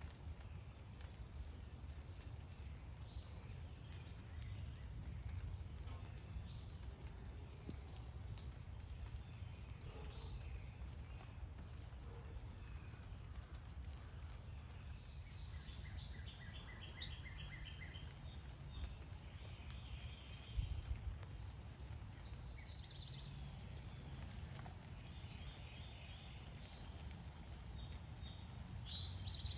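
Backyard birds chirping, with short calls and rapid trills, busier in the second half, over a steady low rumble. One brief thump about two-thirds of the way through.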